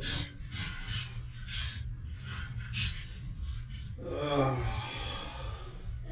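Low wind rumble on the microphone with short breathy rasps every half second or so, then a person's wordless voice about four seconds in.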